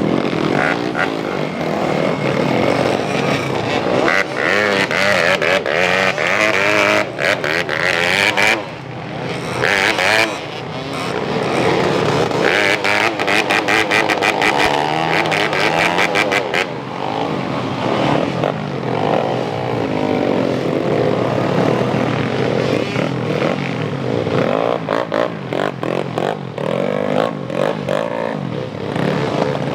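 Motocross bikes' engines revving hard on a climb, the pitch rising and falling again and again as the throttle is worked.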